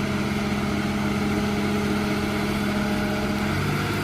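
Diesel engine of heavy earthmoving machinery running steadily, its pitch dropping slightly about three and a half seconds in as it eases off.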